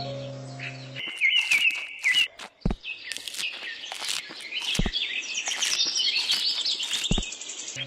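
Outdoor birdsong, many quick high chirps and trills from several birds. Three dull thumps come about two seconds apart.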